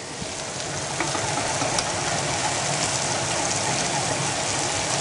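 Meatballs frying in butter and soy sauce in a hot pan, sizzling steadily; the sizzle grows a little louder over the first second.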